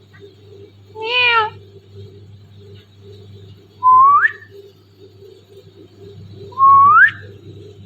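Indian ringneck parrot mimicking a cat's meow about a second in, then giving two short rising whistles, one near the middle and one near the end.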